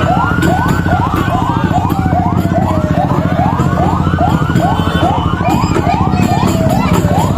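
Two vehicle sirens sounding together: one yelping in quick rising sweeps about three a second, the other in a slow wail that rises and falls, over a steady low engine rumble.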